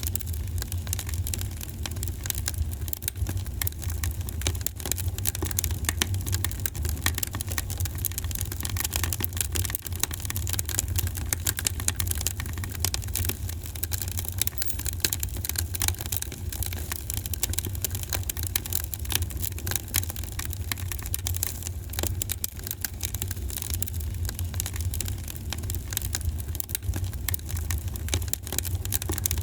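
Wood fire burning in a fireplace: a constant stream of small crackles and pops over a steady low rumble of the flames.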